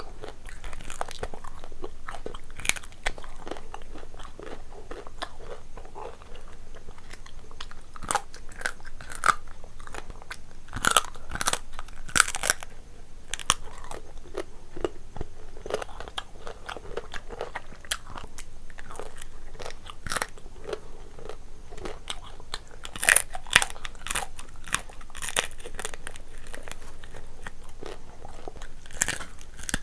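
Close-miked chewing and biting into lobster, with sharp crunches and cracks of shell, the loudest clusters about 11 and 23 seconds in.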